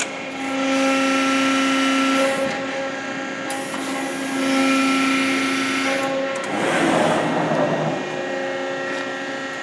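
Hydraulic pump and motor of a Cincinnati Autoform 90-ton CNC press brake running with a steady whine. The whine grows louder twice, from about half a second to two seconds in and from about four and a half to six seconds in, and a rushing hiss follows around seven seconds in.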